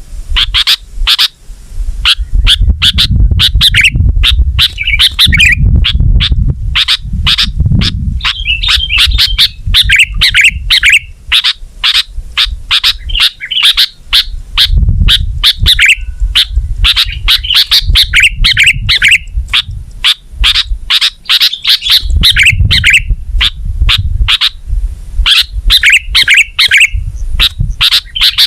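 Sooty-headed bulbul (kutilang) calling loudly in a rapid, unbroken stream of short chirps and warbled chattering phrases. A low rumble comes and goes underneath the calls.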